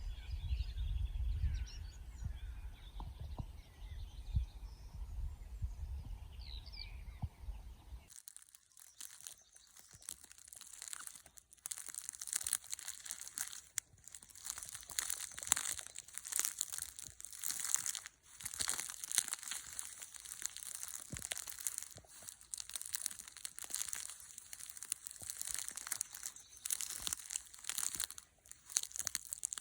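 Birds chirping over a low wind rumble on the microphone. About eight seconds in, the sound cuts to a dense, crackling, splashing patter of running or dripping water that carries on steadily.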